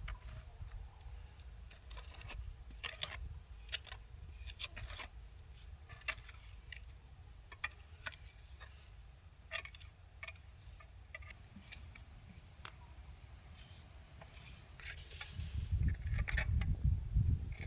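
Irregular light clicks and clinks of small hard objects being handled, with a low rumble building near the end.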